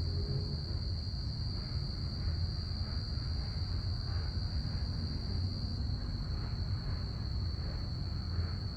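Crickets chirping in a steady night chorus, heard as one continuous high trill, over a low, steady rumble.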